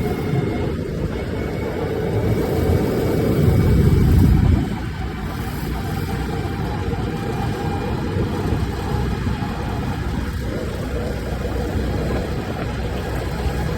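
Diesel engine of a Preet 987 combine harvester running steadily as the machine drives along a road. There is a heavier low rumble for the first four or five seconds, then a steady run.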